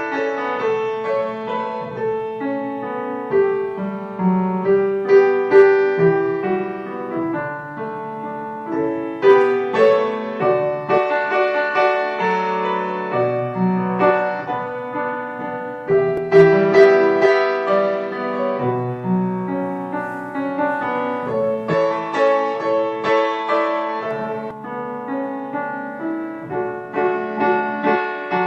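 Slow, gentle solo piano music, with notes struck in flowing chords and melody and left to ring.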